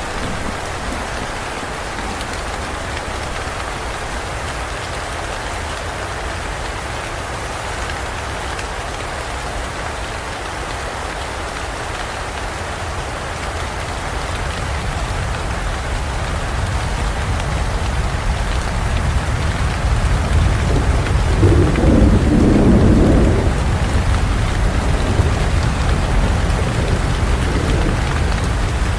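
Heavy rain falling steadily in a thunderstorm, with a low rolling rumble of thunder that builds through the middle and is loudest about three quarters of the way through.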